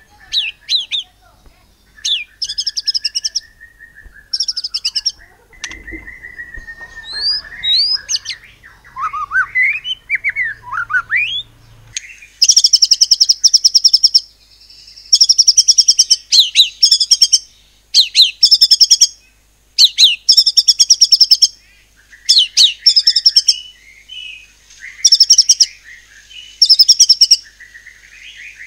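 White-rumped shama (murai batu) singing: short high trills and whistled, gliding phrases, then from about twelve seconds in a string of loud, rapid rattling bursts, each about a second long and coming roughly every two seconds. This is the fast 'nembak' rapid-fire song style, mixed with mimicry of other birds such as the cungkok and cililin.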